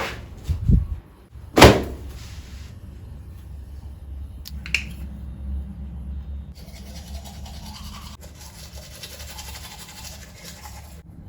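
Household handling sounds over a low steady hum: a dull thud, then a loud sharp knock of something set down, a small click, and then several seconds of soft, steady scrubbing or rubbing.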